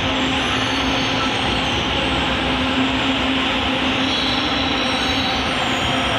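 Metro train running alongside the station platform: a loud, steady rumble of the carriages with a steady hum under it.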